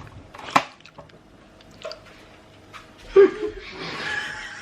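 Wet eating sounds from seafood-boil food: a sharp click about half a second in, then slurping and sucking from about three seconds in.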